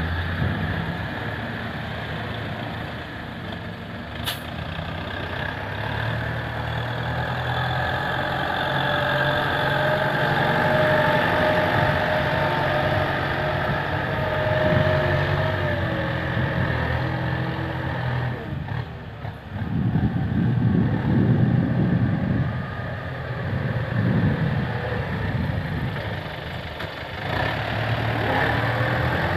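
Heavy diesel truck engine running steadily, its pitch drifting a little. About two-thirds of the way through comes a few seconds of louder, rough low rumbling, with one sharp click about four seconds in.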